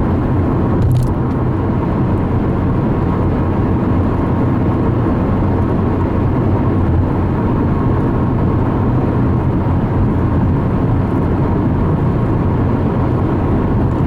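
Steady road and engine noise inside a moving car's cabin, driving on a highway.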